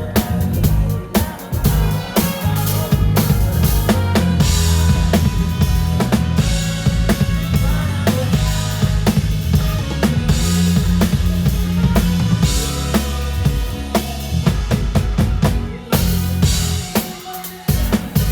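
Live band playing a pop song, heard from beside the drum kit: kick, snare and cymbal hits loud over bass and other instruments, thinning out for a moment near the end.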